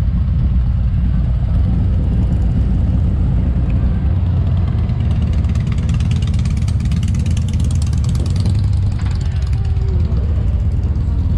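Motorcycle running on the road, its engine a steady low rumble mixed with wind noise.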